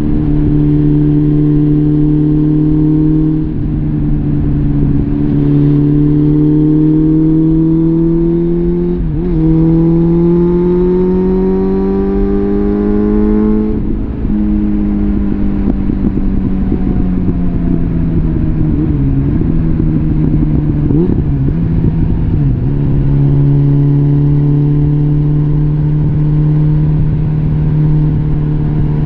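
Suzuki GSF650 Bandit's inline-four engine through a full Arrow exhaust system, heard under way: it holds a steady note, dips briefly about three seconds in, then climbs in revs. The revs drop sharply about nine seconds in and climb again, ease off after about fourteen seconds, and settle to a steady cruise for the last several seconds.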